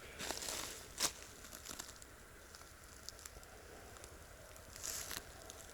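Faint footsteps crunching through forest-floor litter: a few scattered crunching steps near the start and again near the end, quieter in between.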